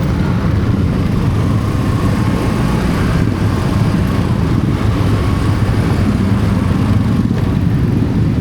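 Steady road-vehicle noise while travelling: a continuous low rumble of engine and road, with no sudden events.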